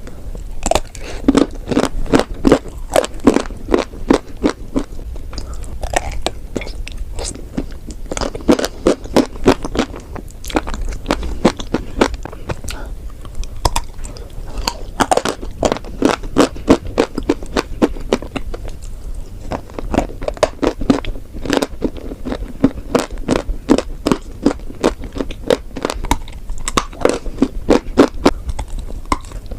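Chalk and clay being bitten and chewed, in repeated runs of dry crunches with short pauses between them.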